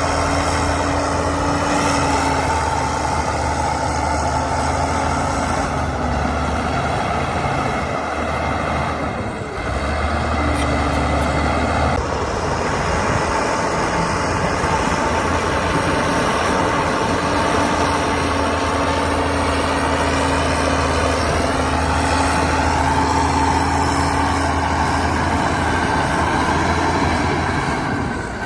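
Heavy diesel earthmoving machinery running steadily under load, a deep, continuous engine drone with a brief dip about nine seconds in.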